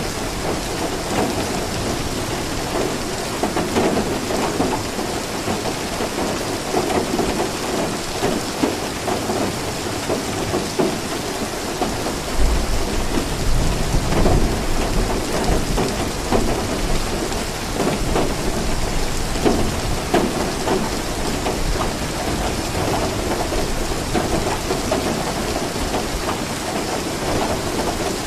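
Steady rain falling, with a low rumble of thunder for a few seconds around the middle.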